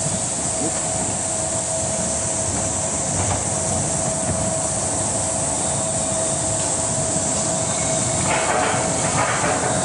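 Steel roller coaster train running on its track: a steady rumbling hiss with a constant whine, growing louder and rougher for about a second near the end.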